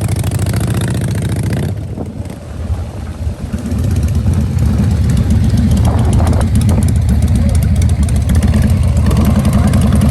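A vehicle engine running loudly with a low, pulsing sound. It eases off about two seconds in, then picks up again and runs steadily.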